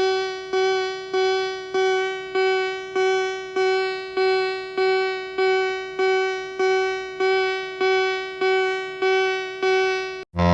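A toy truck's electronic sound effect: a single ringing note struck over and over, about every 0.6 s, each strike fading before the next. It stops abruptly near the end.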